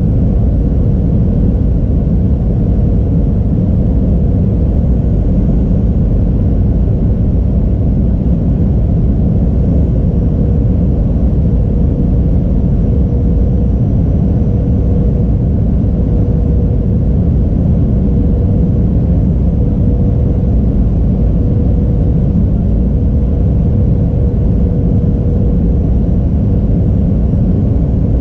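Airliner cabin noise: the steady low rumble of the jet engines and airflow, with a constant hum running through it.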